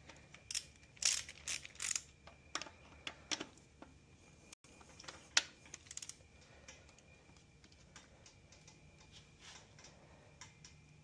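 Scattered light metallic clicks and taps of a click-type torque wrench being worked on the connecting-rod cap nuts of a Continental Z134 gas engine, most of them in the first four seconds. The wrench has not yet given its set-torque release click.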